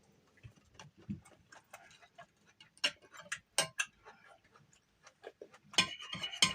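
Close-up eating sounds: irregular wet clicks and smacks of chewing, a little louder and denser near the end.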